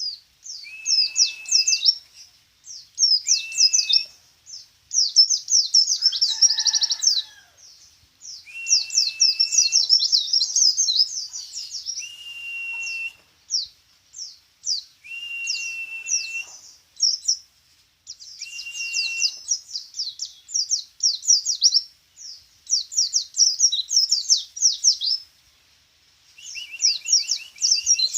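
A pet songbird singing in repeated phrases of fast, high chirps and trills, many joined by a held lower whistle, with a new phrase every few seconds.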